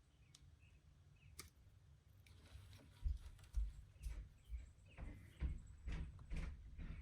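A few faint clicks, then from about three seconds in a regular run of low knocks, roughly two a second.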